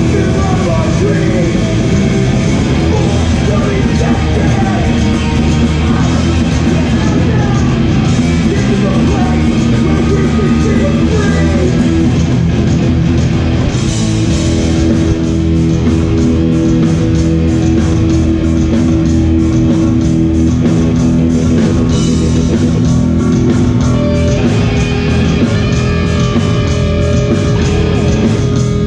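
Hardcore punk band playing live and loud: distorted electric guitars, bass and drums. In the second half guitar notes are held long over fast, even cymbal hits.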